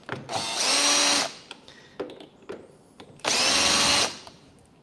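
A power drill or driver runs twice, about a second each time, its whine rising as it spins up, while a part is being taken off.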